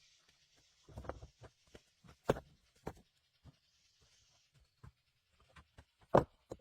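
Irregular short clicks and knocks, with a few sharper knocks about a second in, a little past two seconds and near the end, over a faint steady hiss.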